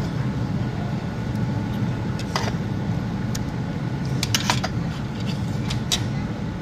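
Steady low rumble of a truck's engine and road noise heard from inside the cab, with a few light clicks and taps scattered through it.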